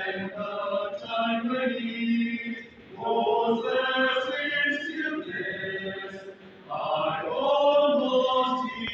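Voices singing in long chant-like phrases, three of them with short breaks between.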